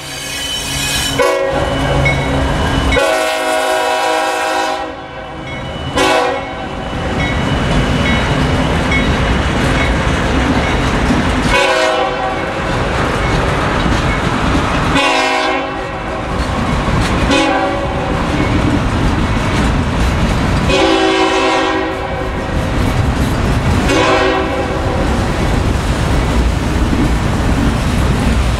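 Union Pacific diesel freight locomotive horn sounding repeated long and short blasts over the steady rumble and wheel clatter of freight cars rolling past on the rails.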